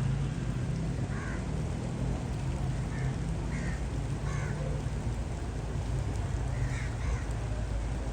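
Short bird calls, about six of them spread through, over a steady low rumble and an even hiss.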